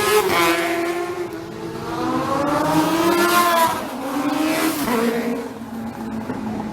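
Racing motorcycles passing at speed on a street circuit, several going by one after another, the engine note rising and falling with each pass. The loudest passes come about half a second in, around three seconds in and near five seconds.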